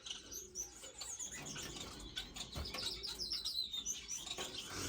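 Caged finches calling: a steady stream of short, high chirps from several birds, overlapping, some sliding down in pitch.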